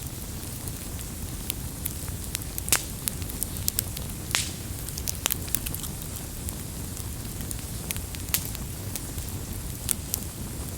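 Wood fire burning with a steady low rumble and irregular sharp crackles and pops, a few louder snaps standing out.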